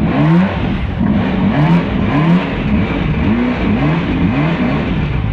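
The creek boat's motor revving up and down in quick repeated bursts, over a steady rush of water.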